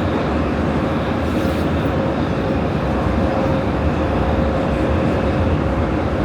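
Prague metro line A train running through the tunnel: a steady loud rumble of wheels on rail, with a thin steady whine over it.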